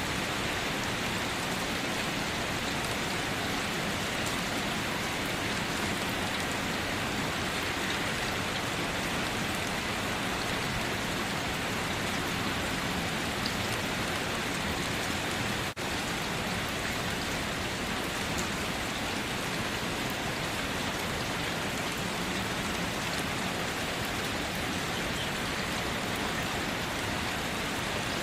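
Steady rain falling, an even, dense hiss with no pauses, briefly dipping in level once a little past halfway.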